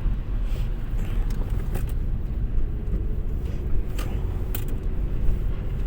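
Car driving on the road, heard from inside the cabin: a steady low rumble of engine and tyre noise, with two sharp clicks about four seconds in.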